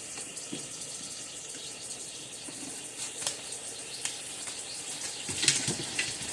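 Steaks sizzling in a hot pan, a steady hiss, with a few sharp clicks and knocks of a plate and utensils being handled; the loudest comes about five and a half seconds in.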